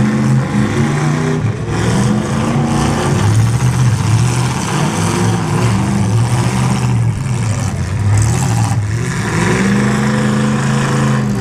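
Demolition derby car engines revving, the pitch climbing and falling again and again as the cars accelerate and back off.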